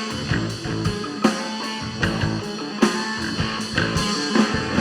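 Live rock band playing an instrumental passage between vocal lines: guitar over a steady drum kit beat, with no singing.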